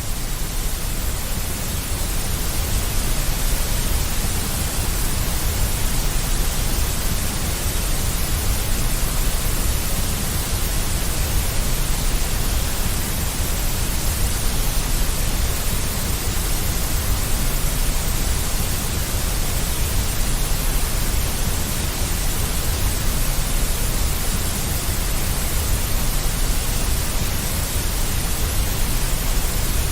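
Deep white noise: a steady, even hiss, strongest in the low end, with no change or break.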